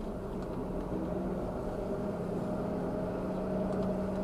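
Semi-truck diesel engine running at low speed, heard from inside the cab as a steady drone while the truck creeps along.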